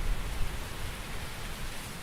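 Autumn forest ambience: a steady hiss with a low rumble underneath, swelling briefly in the first half second.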